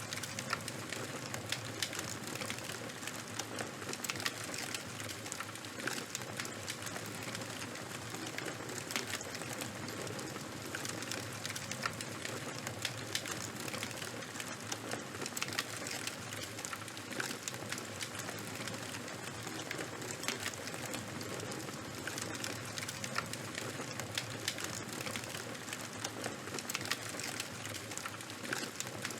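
Charcoal fire burning with a steady hiss and many small, irregular crackles and pops.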